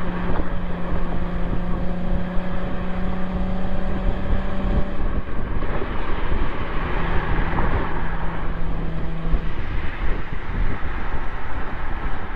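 2004 Mercedes-Benz C320's V6 exhaust, heard from a microphone outside near the tailpipe while driving. The engine note is a steady drone over heavy wind and road rush. The drone holds for about five seconds, drops away, then returns for a few seconds.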